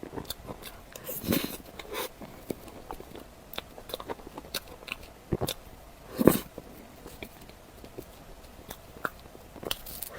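Close-miked eating sounds: someone biting and chewing food, a scatter of short mouth clicks, with the loudest bites about a second in and just after six seconds.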